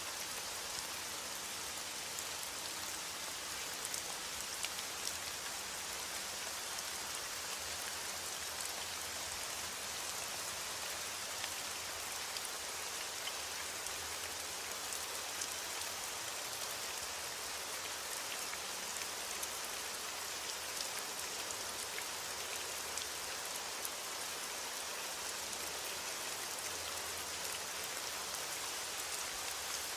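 Heavy rain falling steadily as an even hiss, with small sharp pops and crackles of a wood fire scattered through it.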